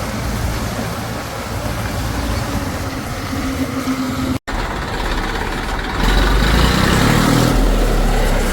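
Heavy diesel machinery engines running. The sound is broken by a sudden cut about halfway through, then grows louder about six seconds in as an engine note rises under load.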